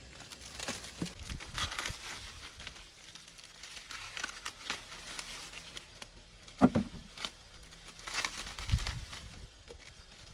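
Dry plant leaves and pods crinkling and tearing as they are stripped by hand, in irregular rustles, with one sharp knock about two-thirds of the way through and a dull thump shortly after.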